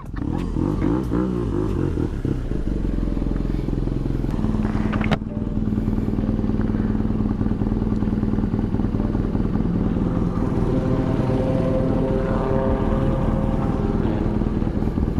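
Motorcycle engine running steadily, with a single sharp knock about five seconds in.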